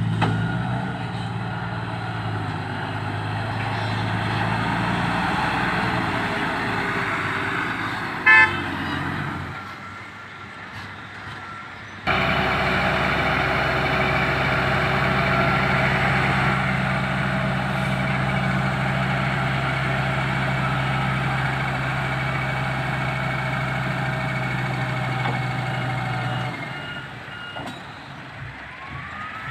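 Truck diesel engine running steadily, with one short, loud horn toot about eight seconds in. About twelve seconds in the engine sound changes abruptly to a louder, steady drone.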